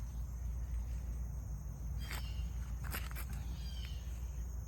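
Garden ambience: a steady high chirring of insects such as crickets under a low, steady rumble, with a few brief sharp clicks and short chirps about two and three seconds in.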